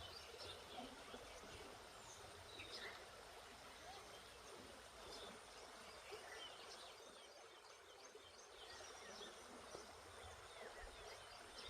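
Faint outdoor nature ambience: a steady hiss with scattered, faint bird chirps.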